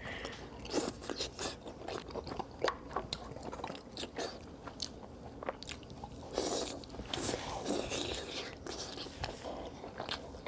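Mukbang eating sounds: a person biting and chewing cheese, with many sharp, irregular mouth clicks and short wet smacks throughout.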